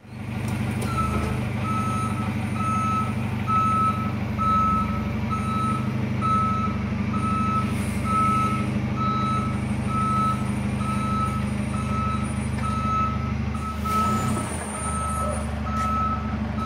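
Vehicle reversing alarm beeping at a steady pace, about one beep every three-quarters of a second, over the steady hum of an idling engine.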